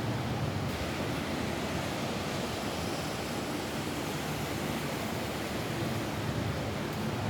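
Steady rain falling on a roof, an even hiss with a low rumble underneath.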